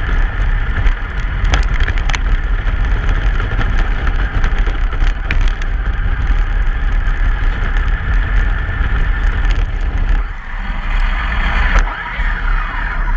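A truck driving with its engine running, picked up by a GoPro mounted on or in the vehicle: a steady low rumble of engine and road noise with scattered clicks and rattles. About ten seconds in, the low rumble eases, and a brief whine rises and falls near the end.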